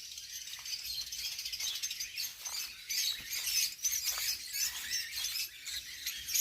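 A flock of lovebirds chattering: a dense, continuous mass of high-pitched chirps and squeaks.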